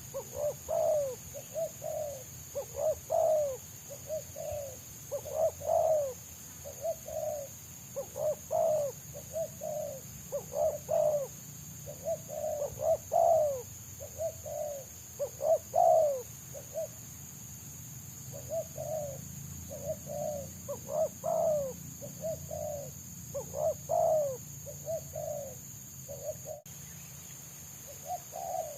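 Spotted doves (tekukur) cooing in quick, close-packed phrases, one after another, with a brief pause about two-thirds of the way through. This is the fast, dense cooing that trappers prize in a wild dove answering a decoy.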